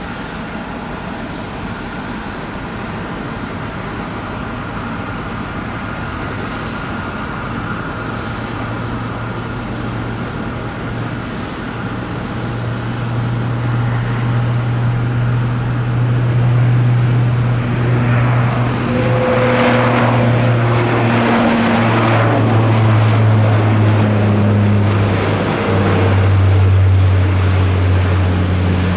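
Bombardier Dash 8 Q400 turboprop at takeoff power, its two engines and six-bladed propellers giving a deep, steady drone that grows steadily louder. Near the end the low propeller hum drops in pitch in steps as the aircraft passes by.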